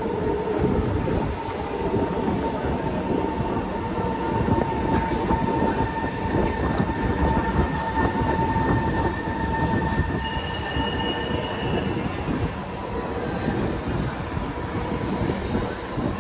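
Singapore MRT train running, heard from inside the carriage: a steady rumble of wheels on the track with faint whining tones held over it, and a higher whine that comes in briefly about ten seconds in.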